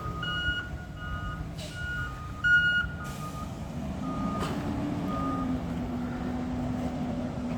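Garbage truck backing up: its reversing alarm beeps about twice a second over the diesel engine's rumble, then stops about five seconds in as the engine carries on with a steady drone. A brief loud knock comes about two and a half seconds in.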